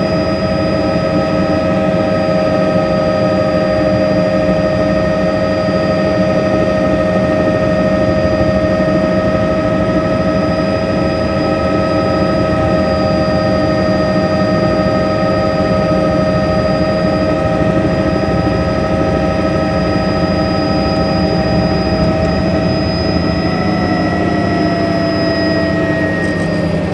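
Helicopter turbine and rotor running steadily: a high turbine whine over the rotor's continuous rumble, the whine dipping slightly in pitch near the end.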